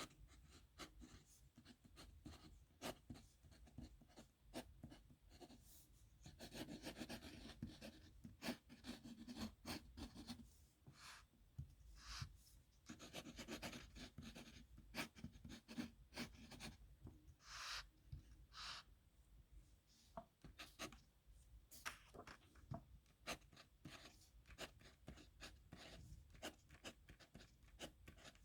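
Pen nib scratching across paper while signatures are written by hand: quick scratchy strokes and light taps, with a few longer stretches of continuous scratching. It is faint.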